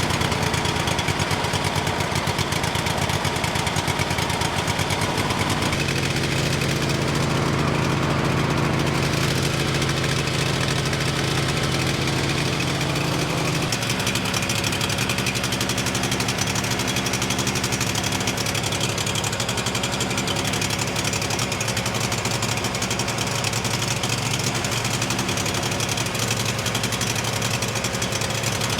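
Kohler CH-25 V-twin engine running steadily at part throttle, freshly fitted with a new head gasket and carburettor after blowing its head gasket. Its speed shifts about 6 seconds in and again about 14 seconds in.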